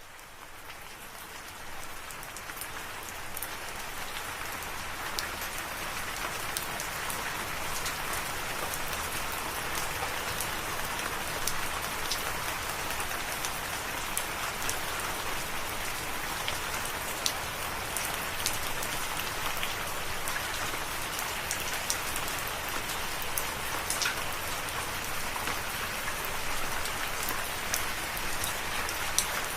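Steady rain falling, with scattered individual drops ticking sharply on a surface. It fades in from silence over the first few seconds.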